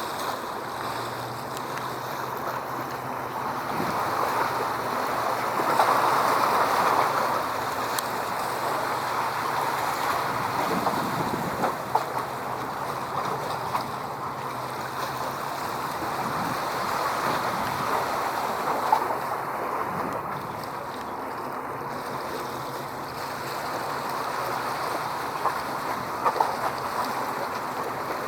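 Waves washing in the water and wind on the microphone: a steady hiss that swells about five seconds in and then eases, with a few small sharp clicks.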